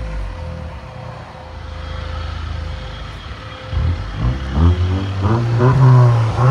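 2022 Honda Accord Sport's 2.0-litre turbo four-cylinder, with its muffler removed, idling and then revved in several short blips near the end, each rise and fall in pitch.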